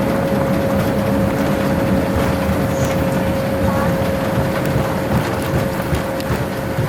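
Boeing 787-9 cabin noise on arrival: a loud, steady rumble of engines and airflow with a steady high whine, easing slightly near the end.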